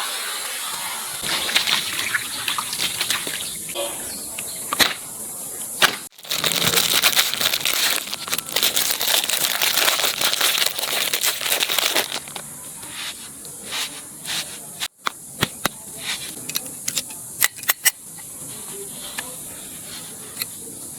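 Cartoon sound effects: a hissing rush, loudest and steadiest for several seconds in the middle, with scattered sharp clicks and crackles.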